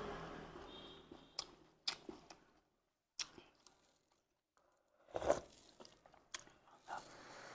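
Close-miked eating of bún riêu noodle soup: chewing with a few short, sharp clicks and knocks, the loudest about five seconds in, and a quiet stretch in the middle.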